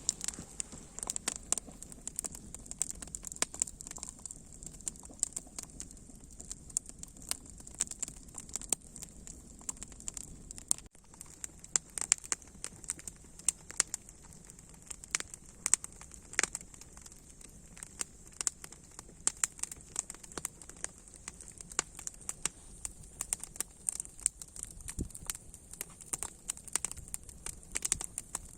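Wood campfire crackling and popping with many irregular sharp snaps over a steady high hiss.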